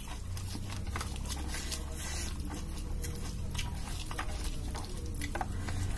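Close-up wet chewing and smacking mouth clicks of someone eating rice and curry, with soft squishing as a hand mixes rice, dal and crushed papad on the plate.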